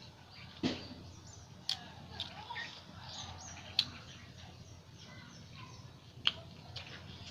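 Mouth sounds of eating curry and paratha: chewing with a few sharp, wet lip smacks. Birds chirp in the background.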